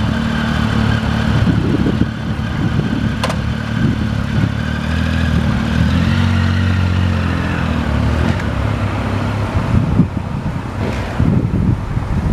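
Motorcycle engine idling with a steady low hum that shifts slightly in pitch partway through, giving way to wind buffeting the microphone near the end.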